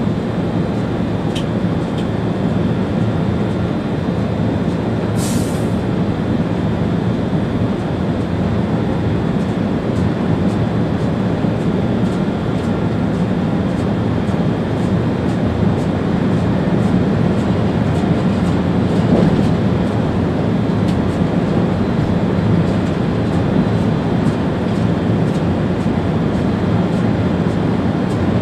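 Steady running noise inside the cab of an ÖBB Railjet train travelling along the line: a continuous rumble with faint regular ticks from the rails. There is a brief hiss about five seconds in.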